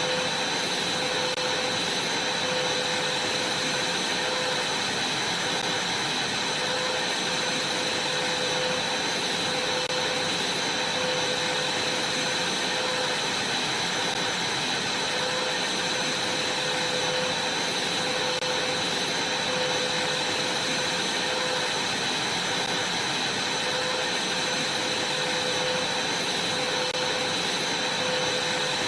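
Vacuum cleaner running steadily: an even rushing noise with a constant high whine and a slightly wavering mid hum.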